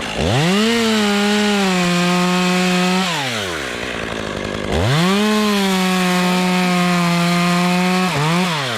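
Two-stroke chainsaw cutting wood in two bursts. Each time it is throttled up quickly, held at high revs under load for about three seconds, then let back down to idle.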